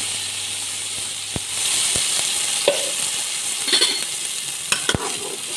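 Freshly ground spice paste sizzling and frying in hot oil. A stirring utensil knocks and scrapes against the pan now and then as the paste is stirred.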